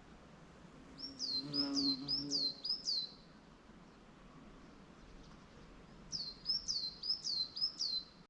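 A songbird singing two quick phrases, each a run of about seven high notes that sweep down in pitch: one a second in, the other near the end. A short, low-pitched sound sits under the first phrase.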